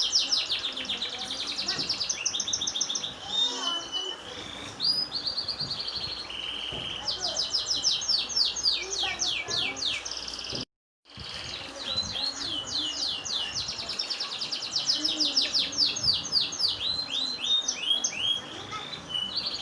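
Domestic canary singing a long, continuous song of fast rolling trills and repeated high notes. The song cuts out for about half a second near the middle.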